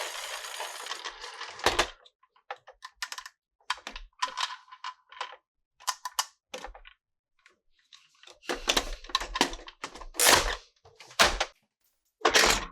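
Plastic toy pieces and packaging being handled: a steady rustling hiss that cuts off about two seconds in, then irregular clicks, taps and rustles, with louder handling clatter in the second half.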